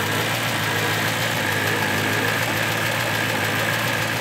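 A 2008 BMW E92 M3's 4.0-litre V8 idling steadily with a tick. The seller believes the engine is bad.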